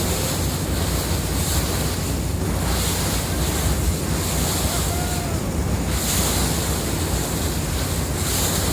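Sightseeing boat under way: a steady low engine hum, with water rushing past the hull and wind buffeting the microphone.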